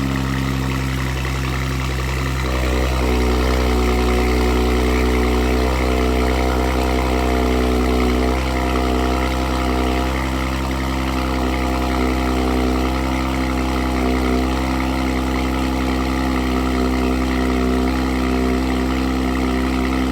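Audi RS5's 2.9-litre twin-turbo V6 idling steadily after a cold start, breathing through freshly fitted 034 Motorsport high-flow catted downpipes and an aftermarket exhaust. A deep, even exhaust drone with no revving, getting slightly louder a couple of seconds in.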